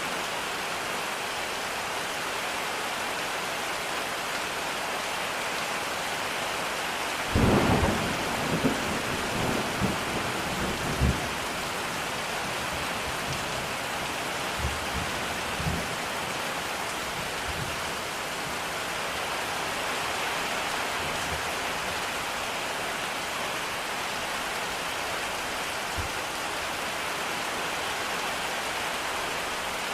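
Steady rain, with a low rumble of thunder starting about seven seconds in and rolling for a few seconds, then a few fainter low rumbles later on.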